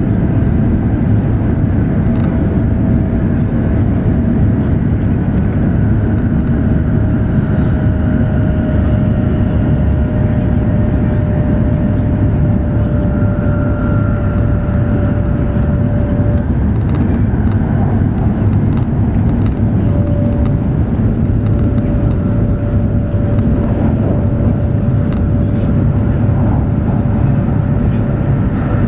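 E7 series Shinkansen running at speed, heard from inside the car: a loud, steady low rumble with a faint steady whine above it and occasional light ticks.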